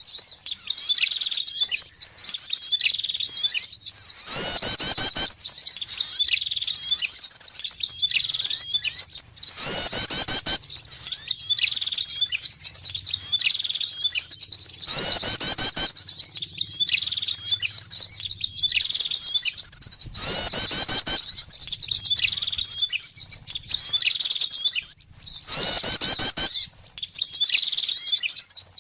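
Bird-lure (pikat) recording of small songbirds: a continuous dense, high-pitched twittering and chirping, with a louder call breaking in about every five seconds in a repeating loop.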